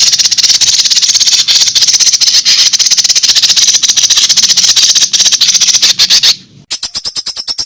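A songbird's fast, harsh rattling call of sharp clicks repeated many times a second, played loud as song-tutor recording for fighting songbirds. It breaks off about six and a half seconds in, and a slightly slower, clicking rattle with a thin high tone starts.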